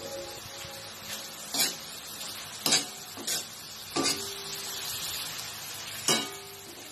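Pieces of pork sizzling in a wok as a metal ladle stirs them, with about five sharp clanks of the ladle against the pan, some leaving a short ring.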